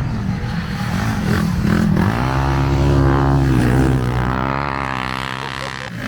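A small vehicle's engine running past, its pitch wavering slightly, loudest about three seconds in and then fading away.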